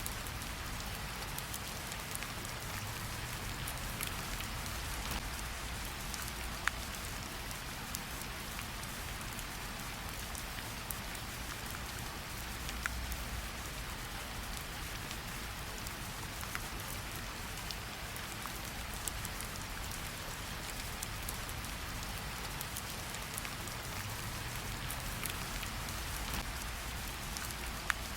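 Steady rain falling on foliage and ground, an even hiss with scattered individual drops ticking sharply throughout.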